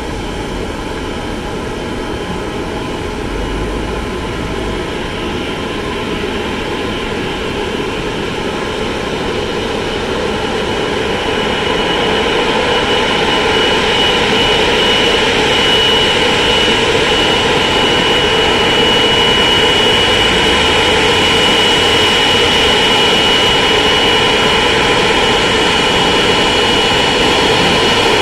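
Boeing 777-200ER's twin turbofan engines running at low thrust while the airliner taxis in to park: a steady jet rush with a high whine, growing louder over the first half as it comes closer, then holding steady.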